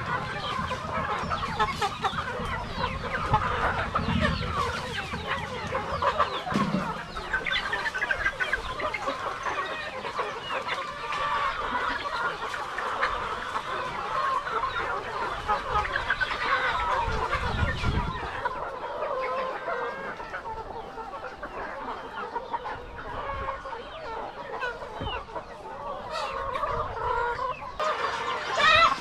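A flock of Rhode Island Red chickens clucking and calling all together, with a rooster crowing now and then.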